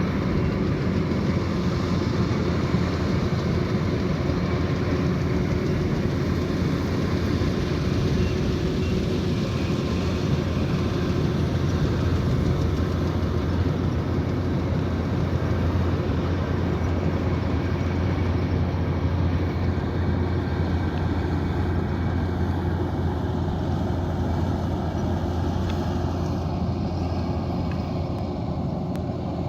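Kubota DC108X combine harvester's diesel engine and machinery running steadily, a constant low hum under a broad mechanical din, easing off slightly near the end.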